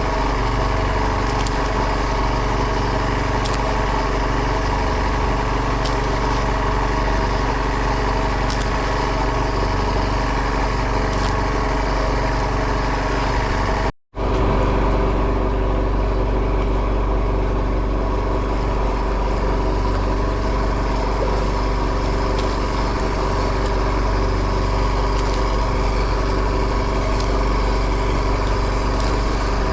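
Boat engine running steadily at an even pitch, with a momentary break about halfway through.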